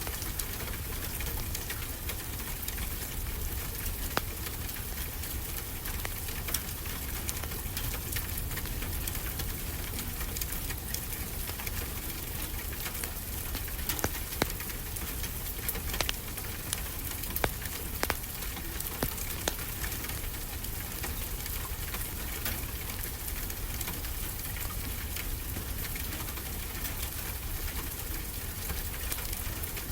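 Wood fire crackling, with scattered sharp pops and a few louder ones in the middle, over a steady rush of ocean surf.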